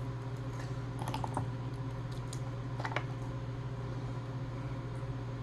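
A few small sharp clicks and crackles of crawfish shells being broken and peeled by hand, over a steady low hum.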